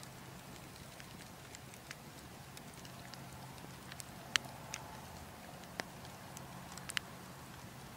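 Wood fire burning in a fireplace: a faint steady hiss with scattered sharp crackles and pops, the loudest coming a little past halfway and again near the end.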